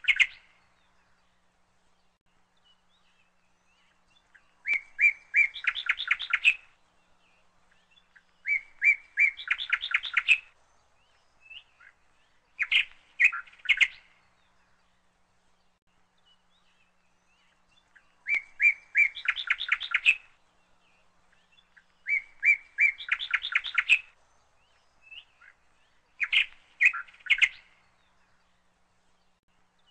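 A songbird singing the same short phrase over and over, about every four seconds with one longer pause in the middle: a few separate high notes, then a fast trill.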